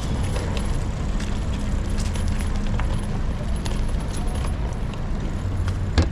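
City street noise heard from a moving bicycle: a steady low traffic rumble with light, scattered rattling clicks, and one sharp knock near the end.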